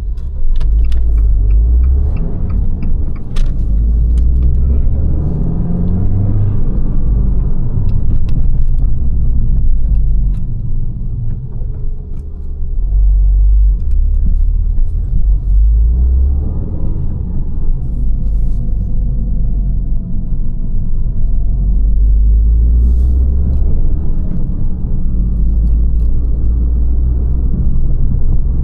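Abarth 595 Competizione's turbocharged 1.4 T-Jet four-cylinder running through its Record Monza exhaust while driving, with a heavy low rumble. The engine pitch rises under acceleration twice and eases off in between. There are a few short sharp clicks in the first seconds.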